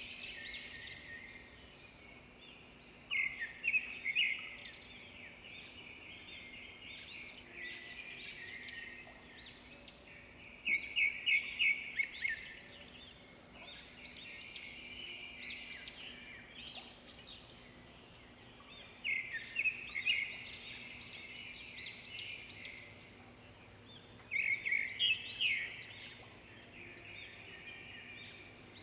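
Rainforest birds calling: a steady chorus of chirps, broken four times by loud bursts of quick repeated notes several seconds apart.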